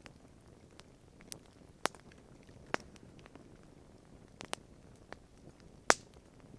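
Wood campfire crackling: about six sharp, irregular pops over a low steady hiss, the loudest pop near the end.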